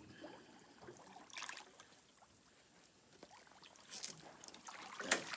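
Water splashing in a few short bursts as a small boat is hauled by hand through shallow water, the loudest splash near the end.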